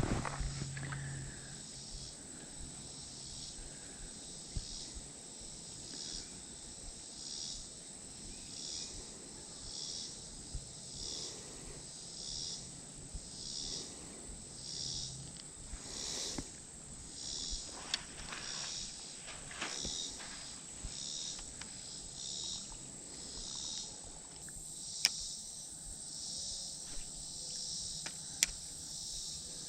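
Insects singing: a steady high-pitched trill with a regular pulsing chirp about every three-quarters of a second, with a few sharp clicks near the end.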